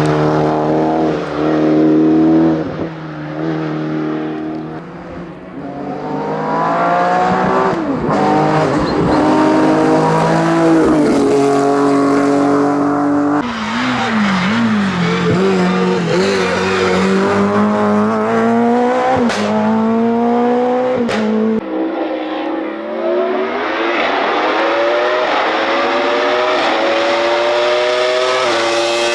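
Race car engine accelerating hard, its pitch climbing through each gear and dropping at every upshift, with two sharp pops about two-thirds of the way in.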